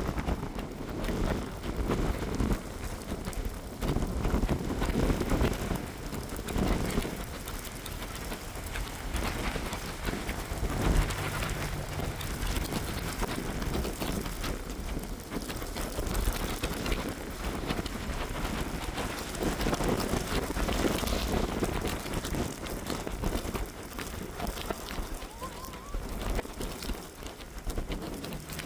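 Wind and rain of a thunderstorm: rain hissing steadily while gusts buffet the microphone in repeated low rumbling surges.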